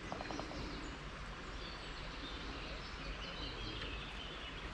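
Faint outdoor background with birds chirping, and a few soft clicks near the start.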